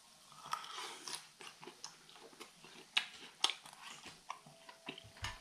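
A person chewing grilled makchang (intestine), close up, with irregular smacking and clicking mouth sounds.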